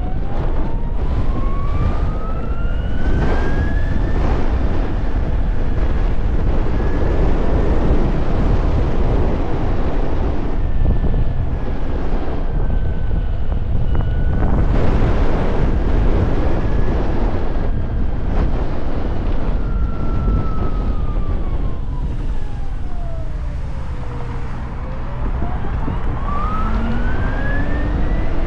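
Can-Am Pulse electric motorcycle's motor whine climbing in pitch as the bike accelerates, holding through the middle, then sweeping down as it slows about three-quarters of the way through and climbing again near the end. Heavy wind rumble on the microphone runs under it.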